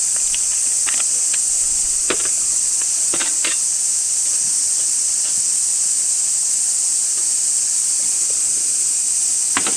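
A dense chorus of cicadas droning steadily and loudly, with a few faint clicks.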